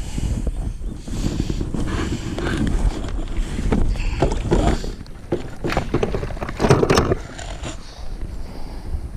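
Wind buffeting the microphone on a kayak out on the water, with a few knocks and clatters in the middle.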